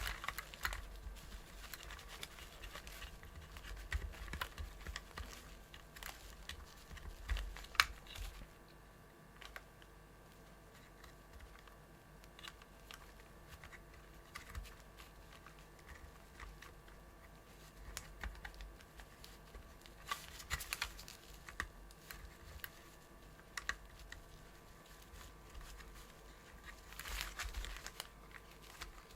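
Scattered clicks, taps and light rustling of hands handling small plastic parts of a partly disassembled vacuum cleaner's brush head, busiest in the first several seconds and in two short clusters later on.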